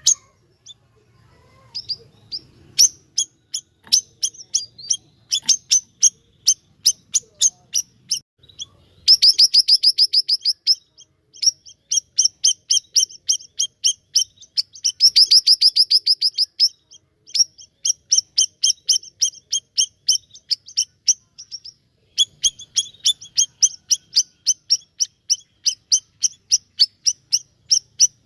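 Siri-siri songbird singing vigorously: long runs of rapid, high, sharp chipping notes, twice breaking into a fast dense trill, about nine and fifteen seconds in, with a few brief pauses.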